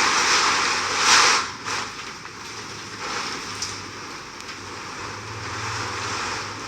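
Hurricane Milton's wind and rain gusting, with the strongest gust about a second in, then easing to a steadier rush.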